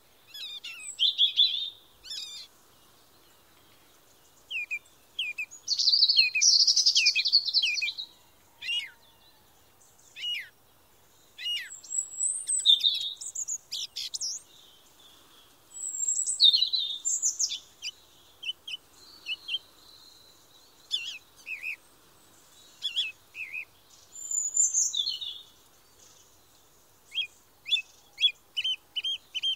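Small songbirds singing: varied chirps, whistled notes and quick trills in phrases a second or two long, with short pauses between them.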